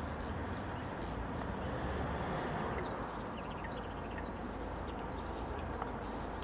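Distant common starling singing: a faint, busy jumble of short clicks, chirps and whistles, over a steady low background rumble.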